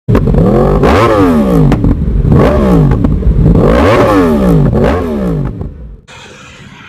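Yamaha R1 inline-four sport bike running through a full-system Akrapovic exhaust, revved hard several times. The pitch climbs and falls with each blip of the throttle, then the sound drops away suddenly near the end.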